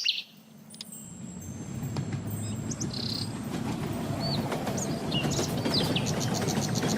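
Birds chirping, with a fast trill near the end, over a low rumble that grows steadily louder.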